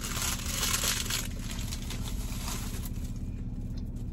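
Crunchy close-up chewing of a fried apple pie roll, the crackling loudest in the first second and thinning after, over a steady low hum.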